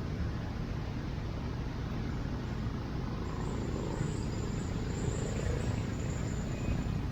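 Steady rumble and hiss of road traffic on a rain-wet street, with a faint high whine in the middle.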